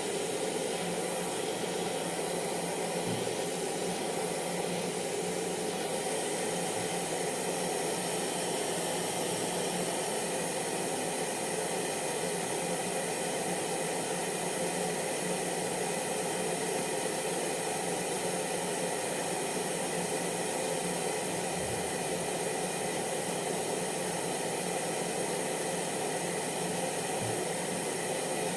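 Hair dryer running steadily: a constant airflow rush with a steady motor hum beneath it.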